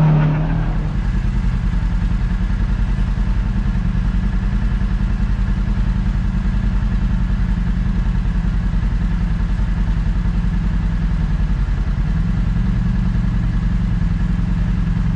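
Kawasaki KRX side-by-side's engine running steadily at low, even revs, with a fast regular pulse and no change in pitch.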